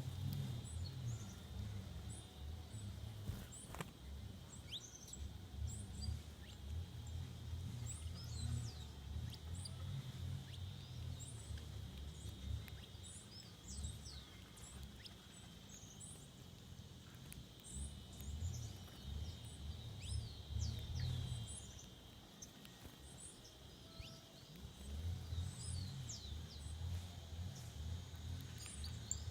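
Wild birds calling throughout: many short, high chirps that fall in pitch, scattered irregularly. Behind them are a steady high hum and an uneven low rumble that fades for a few seconds in the second half.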